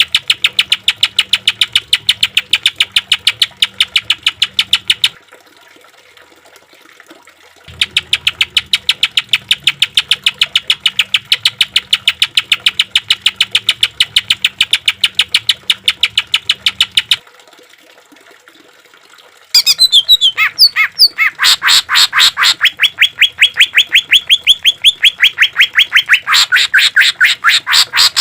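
Greater green leafbird (cucak ijo) calling in long, fast trains of identical sharp notes, the rapid-fire 'tembakan' style, twice broken by short pauses. Near the end it switches to a burst of varied notes and then more rapid trills, the last one higher.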